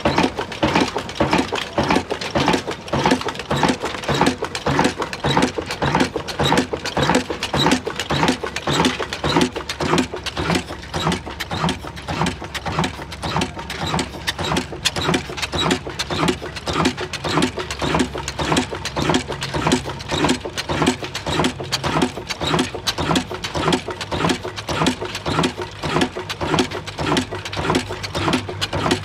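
Old Ruston Hornsby stationary diesel engine running steadily with a slow, even beat of about three strokes a second.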